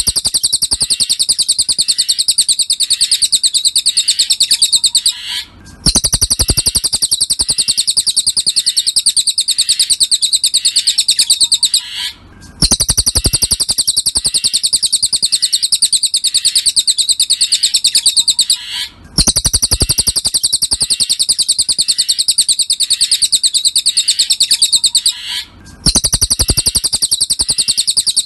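Looped recording of a cililin bird's song: a rapid, high, even trill lasting about six seconds per phrase, repeated with a brief pause between phrases, as used for masteran song training.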